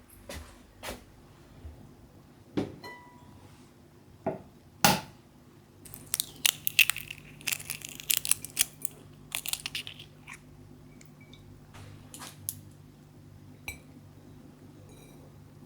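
Kitchen food-prep handling: a few sharp knocks, then several seconds of dense crinkling and crunching, with a few more clicks near the end.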